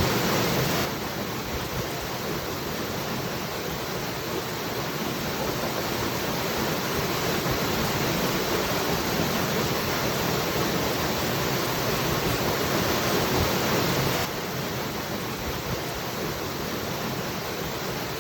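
Waterfall rushing as a steady, even wash of water noise. The level drops abruptly about a second in and again about fourteen seconds in, then slowly builds back.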